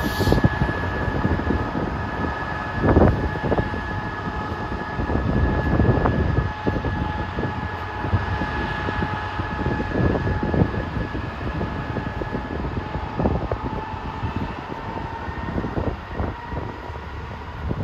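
Train running past: a steady whine over a rumble with irregular knocks and clatter.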